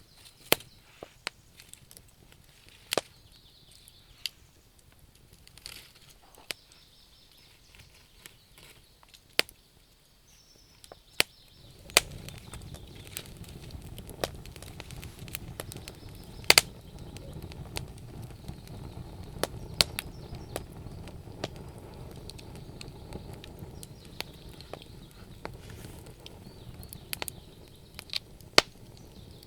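Wood fire crackling, with sharp irregular pops and snaps from the burning logs. About twelve seconds in, a low steady rushing sound comes in under the pops and stays.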